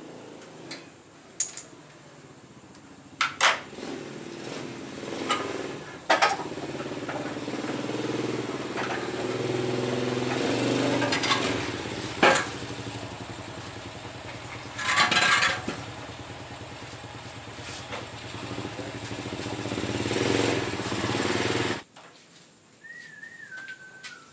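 A motor engine running and building up slowly, with sharp metallic clinks and knocks over it, then cutting off suddenly near the end.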